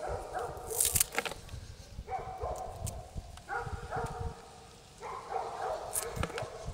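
An animal's voice making four drawn-out pitched calls, each about a second long, with a few sharp clicks between them.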